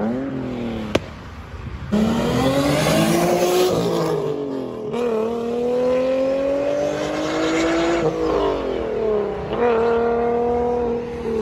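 Tuned performance car engine accelerating hard. Its pitch climbs, drops at each gear change and climbs again, and it gets much louder about two seconds in.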